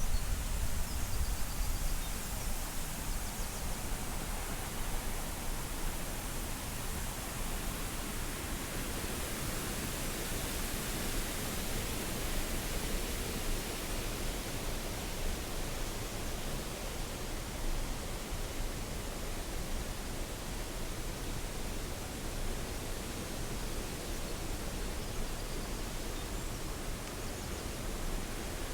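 Steady rushing hiss of a waterfall's falling water. A low rumble in the first couple of seconds dies away.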